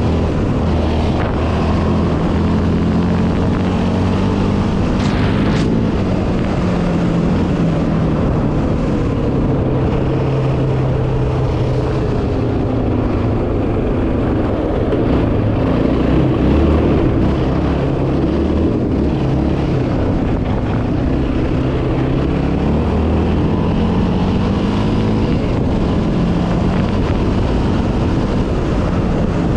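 Yamaha Raptor 700R quad's single-cylinder four-stroke engine running as it is ridden, its pitch climbing and dropping repeatedly as the throttle opens and closes.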